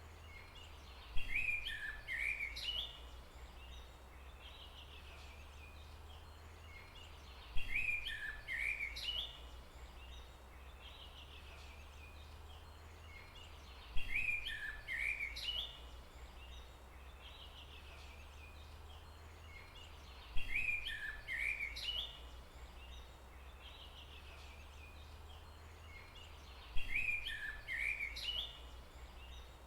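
A songbird's short chirping phrase, the same each time, repeated five times about every six seconds, each with a sharp first note, over a steady low hum.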